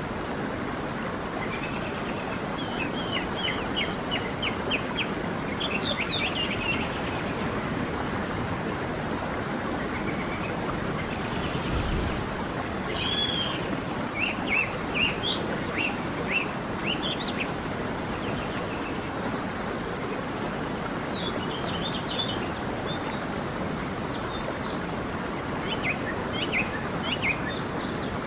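A stream running steadily, with songbirds chirping over it in several short runs of quick high notes. There is a brief low thump about midway.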